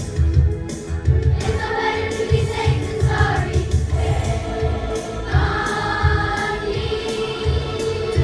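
Children's choir singing together over a musical accompaniment with a steady bass beat.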